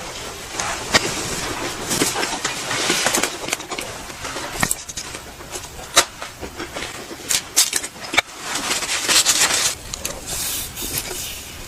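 Close-miked eating: irregular chewing and biting with sharp mouth clicks and short, wet, noisy bursts.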